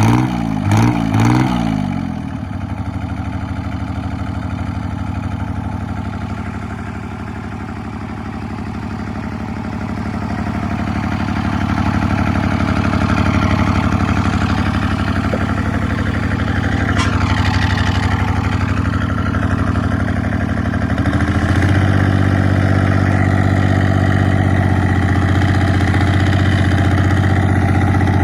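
1984 John Deere 430's three-cylinder diesel running through a straight-piped stack exhaust. It gives a few quick revs at the start, settles to a steady idle, then steps up to a faster, louder steady speed about three-quarters of the way through.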